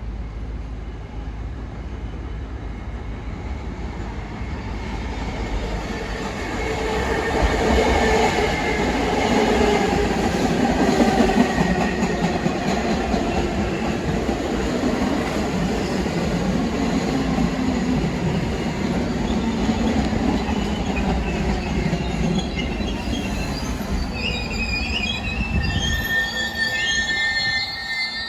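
New York City subway train running past on the rails, its rumble building to a loud, steady pass. Near the end, high wavering wheel squeals join in.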